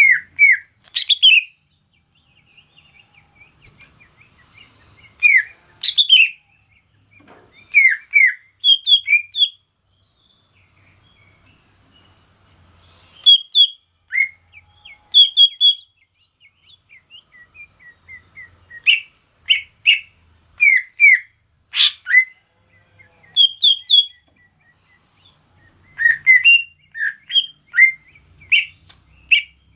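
Cucak ijo (green leafbird) singing: loud clusters of short, sharp whistled notes, many sliding up or down, given in bursts every couple of seconds, over a steady high hiss.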